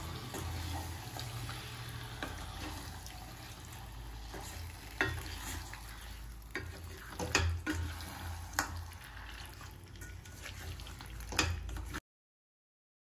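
Marinated chicken sizzling as it is stirred into the fried masala in a kadhai, with a spatula scraping and knocking against the pan several times. The sound cuts off abruptly near the end.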